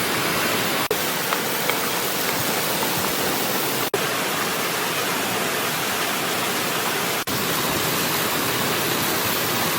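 River water rushing with a steady, even hiss, dipping out briefly three times.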